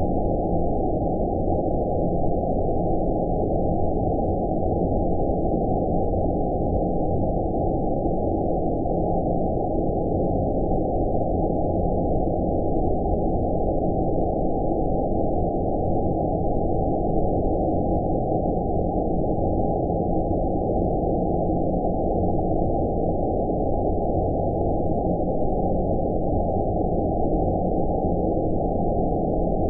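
Synthesized 'outer space' sleep noise: a steady, deep, muffled rumbling hiss with all its energy low down and nothing high, unchanging throughout.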